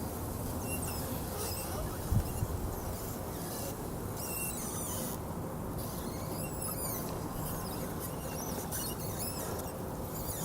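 RC scale crawler driving over forest ground: its small electric motor and gears whine in short stretches that rise and fall in pitch with the throttle, over a steady rumble, with one sharp knock about two seconds in.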